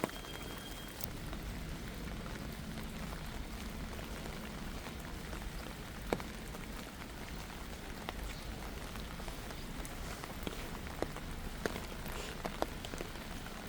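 Steady rain falling, with a few sharper single drops hitting close by now and then.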